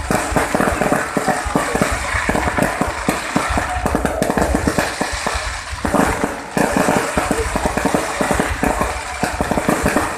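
Fireworks going off in rapid succession: a dense run of bangs and crackles over a low rumble, with a brief lull about six and a half seconds in.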